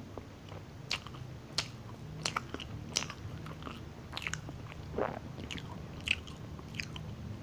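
Close-miked chewing of a soft, moist cranberry muffin: wet mouth clicks and smacks come irregularly, a few every second.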